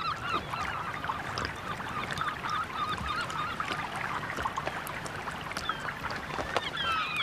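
A flock of Eurasian spoonbills with their chicks calling: a dense, continuous chatter of many short, rising and falling calls, with occasional sharp clicks.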